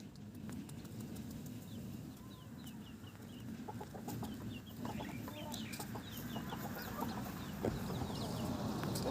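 Chickens clucking, with runs of short high chirps from about two seconds in.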